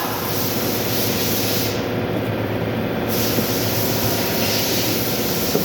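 Electric auxiliary cooling fan running steadily: a rushing whoosh of air over a low, even hum. The hiss dulls briefly about two seconds in.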